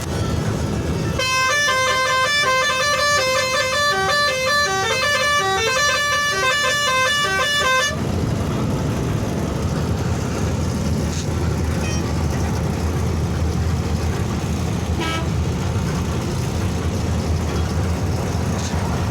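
Truck's musical multi-tone horn (a 'Pakistani' horn) playing a quick tune of stepped notes, starting about a second in and stopping about eight seconds in. The rest is the steady low rumble of the vehicle's engine and road noise.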